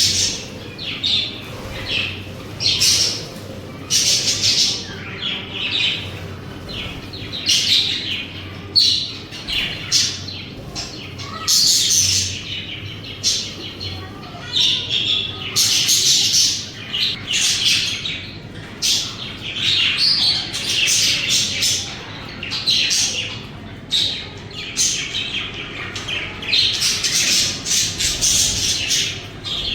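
Budgies chirping and chattering in a steady run of short, high chirps and occasional squawks, with brief pauses between bursts.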